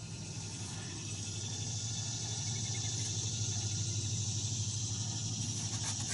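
A motor running steadily with a low hum, under a high hiss that grows louder over the first couple of seconds.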